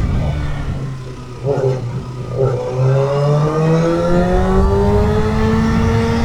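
2008 Kawasaki ZX-6R inline-four through a GPR aftermarket exhaust, easing off, then two short throttle bursts about a second and a half and two and a half seconds in. It then accelerates hard, its pitch rising steadily to the end.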